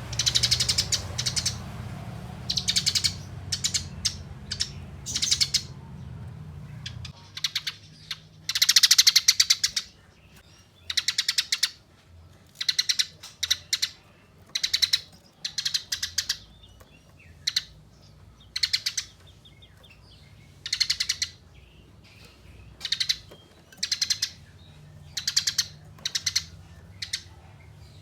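Eurasian tree sparrow (burung gereja) giving fast, rattling fighting chatters in short high-pitched bursts, roughly one every one to two seconds. A low background hum sits under the calls and drops away about seven seconds in.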